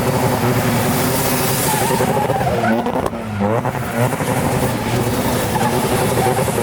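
Car engine revving high during a drift, its pitch rising and falling, with tyre noise under it.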